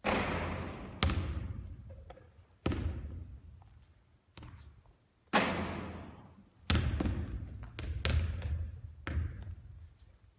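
Basketball shooting practice: a series of sharp ball impacts, rim or backboard hits and bounces on the court, roughly every second or two, each followed by a fading rattle as the ball settles.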